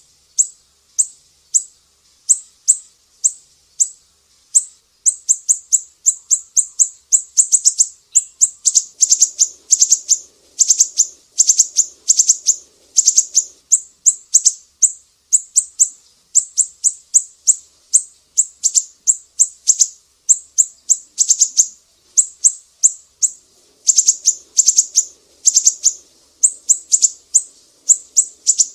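Sumatran siri-siri bird calling, a string of sharp, high chirps repeated several times a second, crowding into fast runs in places.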